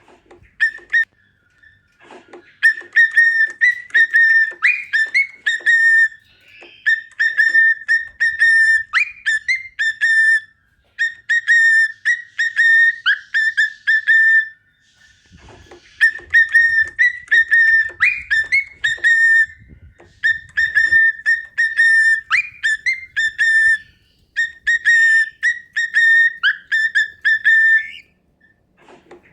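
Cockatiel whistling its song: phrases of short, repeated whistled notes, mostly on one pitch, with the odd upward-sliding note, broken by a few brief pauses.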